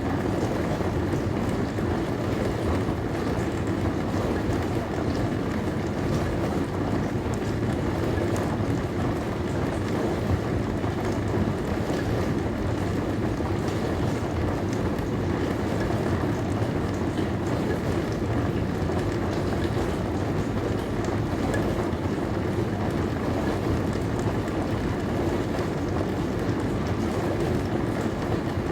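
Dishwasher running: a steady, even rush of spraying water and machine noise, mostly low in pitch, with no breaks or changes.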